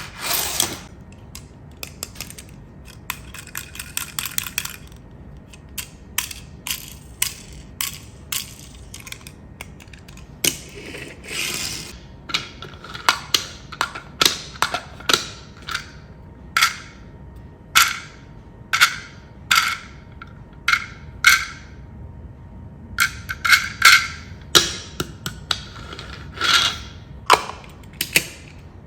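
Irregular sharp clicks, taps and knocks of small hard objects being handled, with a few short scraping rubs.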